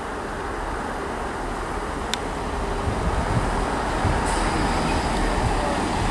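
Class 166 diesel multiple unit pulling into the platform: a steady low rumble of engines and wheels that slowly grows louder. There is a sharp click about two seconds in, and a higher hiss joins about four seconds in.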